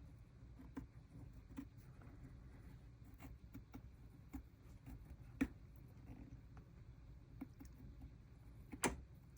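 Faint handling of stickers and paper on a journal page: soft scattered taps and light rustles, with two sharper clicks about five seconds in and near the end.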